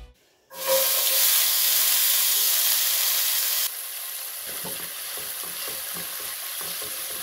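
Chopped red onions sizzling in hot oil in a frying pan, starting about half a second in. Partway through the sizzle drops to a quieter, steady level, and a wooden spatula stirs and scrapes the pan in quick, regular strokes.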